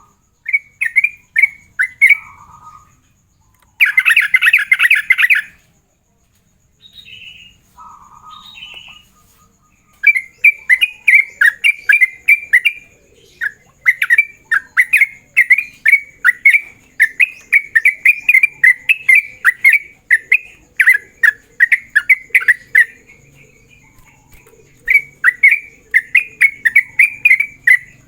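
Yellow-vented bulbul singing in its rapid 'ropel' style: long runs of quick, repeated falling chirps, with a harsh buzzy burst about four seconds in and a few lower notes between the runs.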